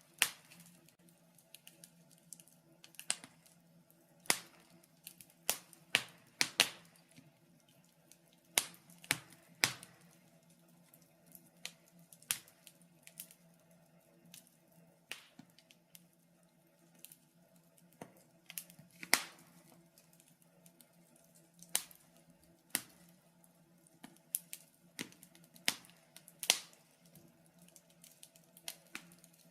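Wood fire in a fireplace crackling, with sharp, irregular pops about a second apart, over a faint steady hum.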